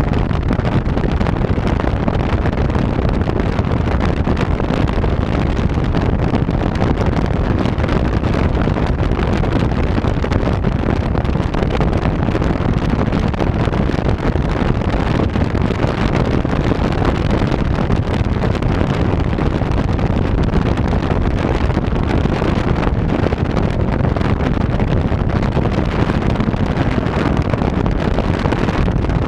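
Steady, loud wind rushing over the microphone of a chest-mounted GoPro 3+ as the bicycle rides along, the airflow from riding speed buffeting the mic without let-up.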